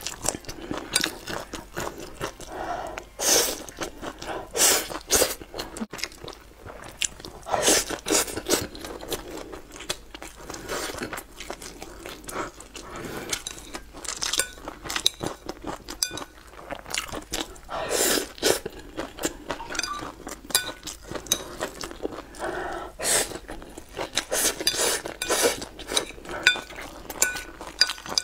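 Close-miked chewing and crunchy biting of spicy stir-fried food: many sharp, irregular crunches and wet mouth noises.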